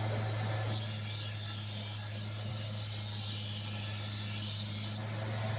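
Electric grinder running with a steady low hum. From under a second in until near the end, a high hiss of hardened steel being ground against the abrasive, which starts and stops abruptly.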